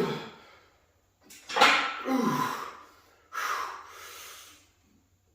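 A man breathing out hard twice under strain while lifting a heavy barbell, the first breath with a short falling grunt, the second a long hiss of air.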